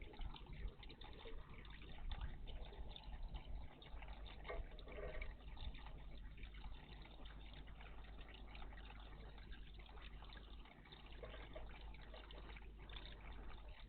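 Water in a bird bath splashing and dripping in small irregular bursts, over a steady low hum.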